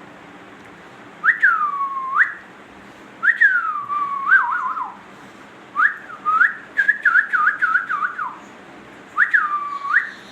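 Ringneck parrot whistling, in four phrases. The first and last are a single swoop that dips and climbs back up. The second is a swoop ending in a wobble, and the third is a quick, wavering run of notes.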